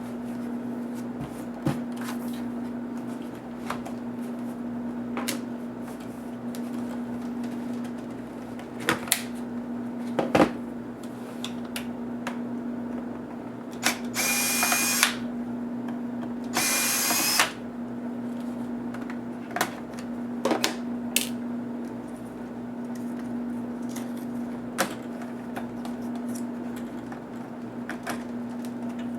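A power screwdriver runs twice, about a second each time, around the middle. Scattered sharp clicks of tools and screws on a laptop's plastic case come between the runs, over a steady low hum.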